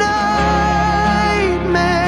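A pop ballad: a singer holds a sung note, bending slightly in pitch, over steady backing music.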